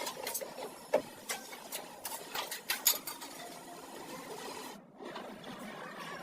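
Irregular sharp clicks and light knocks, most in the first three seconds, over a steady background noise, broken by a brief gap of near silence just before five seconds.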